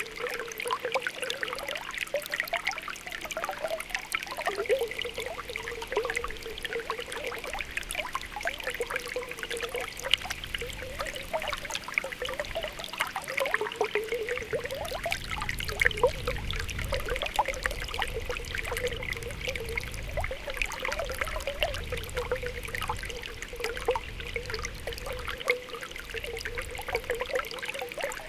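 Spring water welling up through a pool, bubbling and popping over a steady trickle, with many small pops and gurgles throughout.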